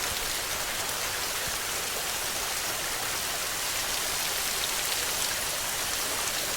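Rain falling steadily: an even hiss with the patter of drops, unchanging in level throughout.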